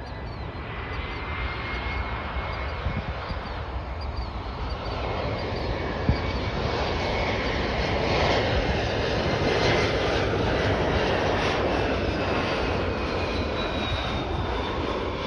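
Embraer E175 regional jet coming in to land, its twin turbofans a rush of jet noise that builds over several seconds and peaks in the middle, with a thin high whine that slowly drops in pitch as it passes.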